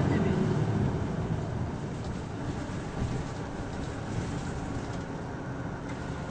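Isuzu Erga city bus's diesel engine heard from inside the cabin: its sound falls away over the first couple of seconds as the bus eases off, then settles into a steady low hum, with a couple of faint knocks.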